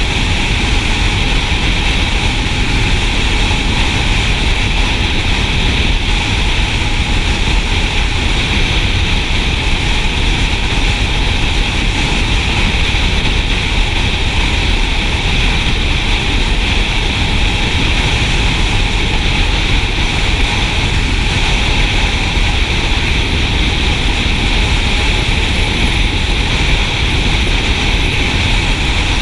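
Motorcycle riding steadily at road speed: a constant rush of wind and road noise over the running engine, heavy at the low end.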